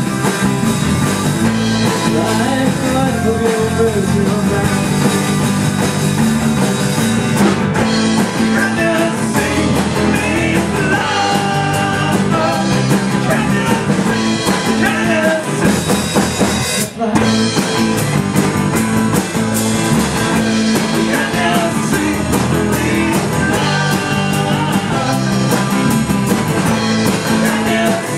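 Live rock band playing, with singing, electric guitar and drum kit, and a brief drop-out about 17 seconds in.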